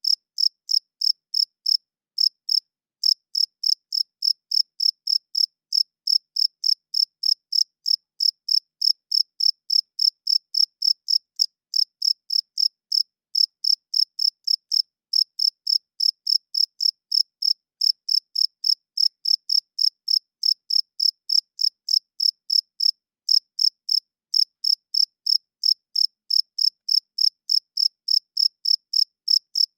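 Cricket chirping steadily in a fast, even rhythm of about four high-pitched chirps a second, with a few brief breaks.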